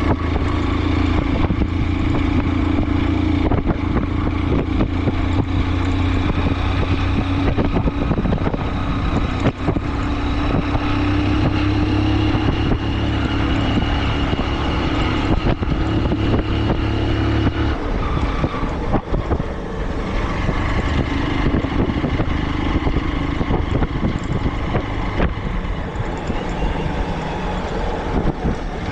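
A motor vehicle's engine running steadily under way, with road noise. Its steady low drone changes and falls away about two-thirds of the way through, as if the vehicle slows or changes gear.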